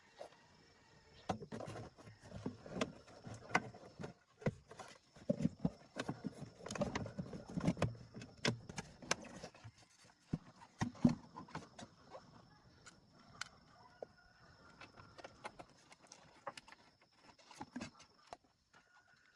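Scattered, irregular knocks and clicks, most frequent in the first half, with a faint steady high-pitched whine.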